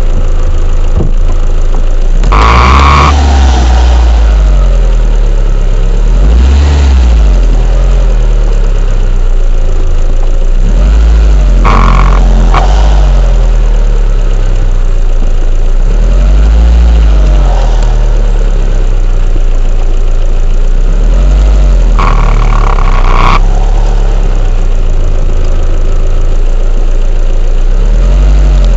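An engine or motor running with a loud, steady low drone whose pitch rises and falls in slow cycles about every four to five seconds. A brief brighter, higher-pitched noise comes in about every ten seconds.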